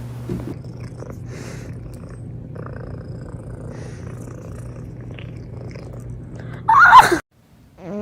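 A cat purring steadily, then about seven seconds in a short, loud, high cry with a wavering pitch that cuts off abruptly.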